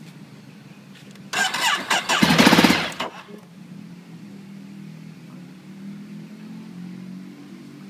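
Ducati 848's starter cranking its L-twin engine for about two seconds, with fast regular pulses toward the end, then stopping without the engine firing: the bike won't start.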